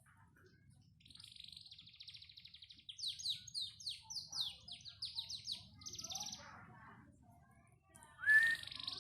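Panda canary singing: a fast buzzy trill starts about a second in, then a run of quick repeated sweeping notes, a short lull, and a loud rising whistle with a trill near the end.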